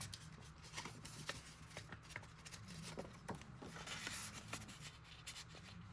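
Faint rustling of paper pieces being handled and pressed down in a journal, with scattered small clicks and taps, over a low steady hum.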